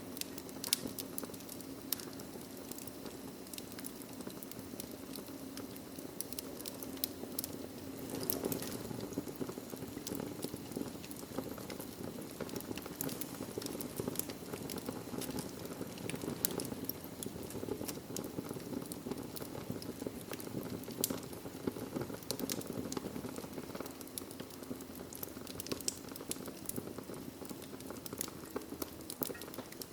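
Wood fire crackling in a fireplace: a steady low rush of burning with many small, sharp pops and snaps scattered throughout.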